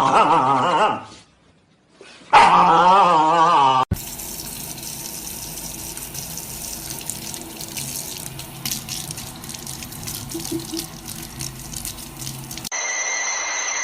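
Running water splashing for about nine seconds, after two short wavering cries near the start; near the end a steady high electronic tone takes over.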